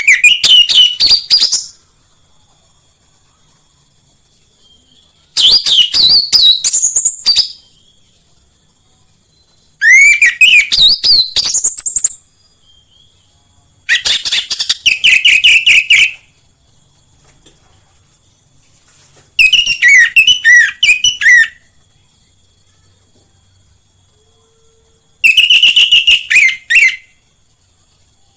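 Orange-headed thrush song: six loud phrases of about two seconds each, roughly five seconds apart. Each opens with rising whistles and runs into a quick warble.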